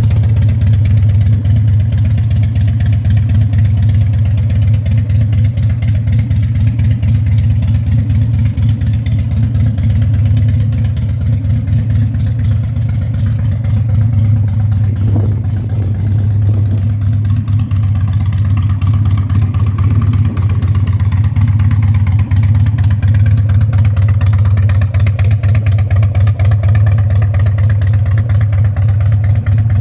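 Harley-Davidson Dyna Super Glide's V-twin engine idling steadily.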